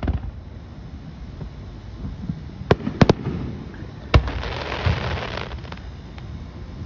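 Aerial fireworks shells bursting overhead. There is a boom at the start, three sharp reports in quick succession about three seconds in, another about a second later, and then about a second of dense crackling from gold crackle stars.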